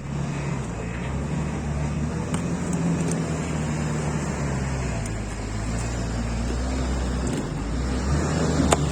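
Heavy vehicle engine running steadily at coal loading, its pitch shifting slightly a couple of times, with a few faint clicks and one sharp knock near the end.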